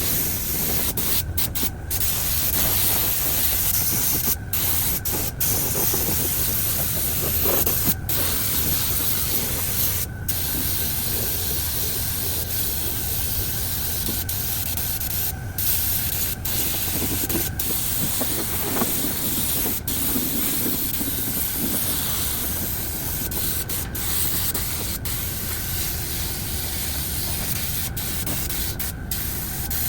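Compressed-air spray hissing steadily, cut by many brief breaks, over a steady low background rumble.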